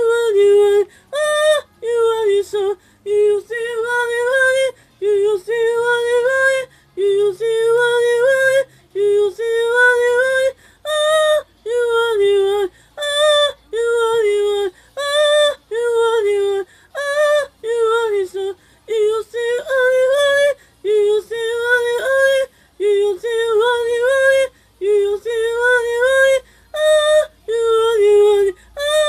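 A high voice singing unaccompanied, repeating short wordless sung phrases of about a second each with brief breaks between them.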